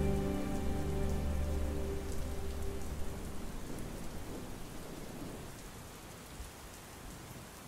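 Steady rain falling, an even patter, while the held chords of a piece of music fade out over the first two or three seconds; the rain itself grows fainter toward the end.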